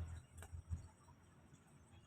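A quiet gap between bird chirps: one sharp click about half a second in, then a couple of soft low thumps, over faint room tone.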